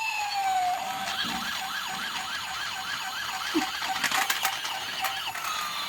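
Battery-powered toy police car's electronic siren: a falling wail gives way about a second in to a fast warbling yelp, and a new falling wail starts near the end. A few sharp clicks come about four seconds in.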